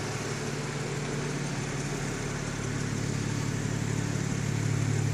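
BMW 435i Convertible's turbocharged inline-six idling steadily, a low even hum that grows a little louder near the end.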